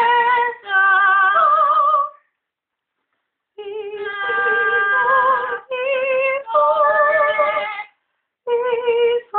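Amazon parrot singing wordless held notes with a clear vibrato wobble, in short phrases with two brief pauses.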